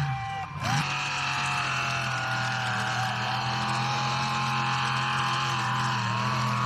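Competition pulling tractor's engine running flat out at steady high revs during a pull, with a higher wavering whine above the engine note. The sound drops out briefly about half a second in, then holds steady.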